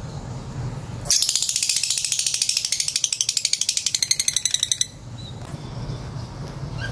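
Lovebird giving a long, rapid chattering trill of about ten notes a second, starting about a second in and lasting almost four seconds, over a low steady hum.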